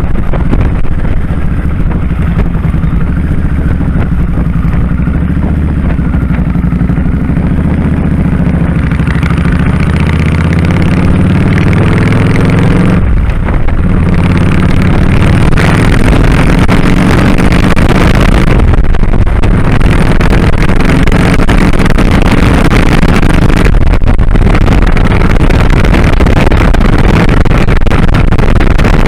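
2001 Kawasaki Drifter 1500's V-twin engine pulling hard as the bike gathers speed, its pitch climbing and then dropping briefly three times, about five seconds apart, as it shifts up. Wind noise on the microphone grows as the speed builds.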